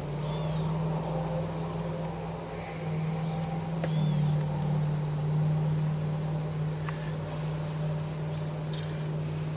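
Steady high-pitched chorus of crickets trilling, over a steady low hum. A couple of faint short chirps come through.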